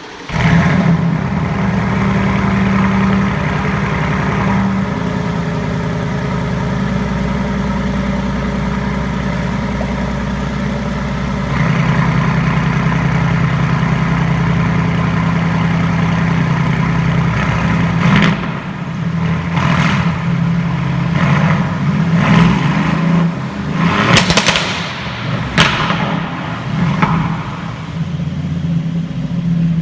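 2019 Aston Martin Vantage's 4.0-litre twin-turbo V8 starting up, catching suddenly and then settling into a steady idle. From about two-thirds through it is revved in a series of short blips, with sharp pops and crackles from the exhaust.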